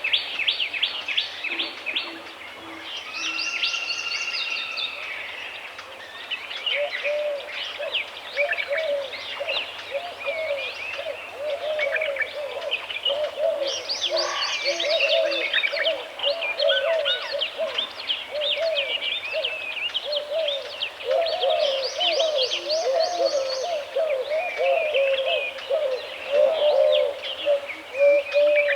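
Woodland bird chorus: many high chirps and trills overlapping. From about six seconds in, a lower warbling call repeats steadily. Now and then there are short runs of three or four low notes.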